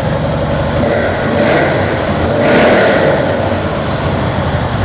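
Harley-Davidson 103 cubic inch V-twin running through aftermarket slash-cut slip-on mufflers, with a deep sound. The throttle is blipped: the engine revs up from about a second in, peaks around the middle, then settles back toward idle.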